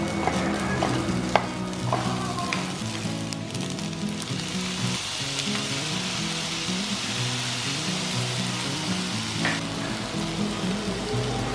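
Shrimp, sausage and garlic fried rice sizzling in a nonstick frying pan as it is stirred, with a spatula tapping the pan a few times in the first two seconds. The sizzle grows into a louder, brighter hiss about four seconds in, as dark sauce goes into the hot pan, and eases near the end.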